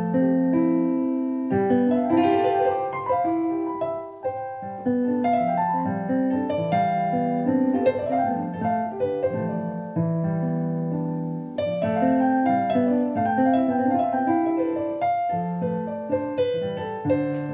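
Freely improvised piano music with overlapping notes and no steady beat, broken by brief pauses a little after the start, around four seconds in, and around eleven seconds in.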